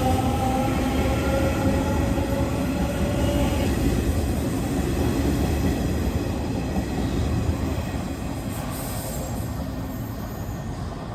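Nishitetsu 9000 series electric train pulling out, its Toshiba SiC VVVF inverter giving a steady whine that fades out about four seconds in. The running noise of the wheels on the rails carries on and slowly dies away as the train moves off.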